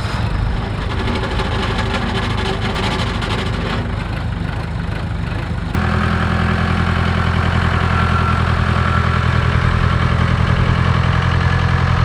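Case 580K backhoe's diesel engine running steadily. About six seconds in it changes abruptly to a louder, steadier drone.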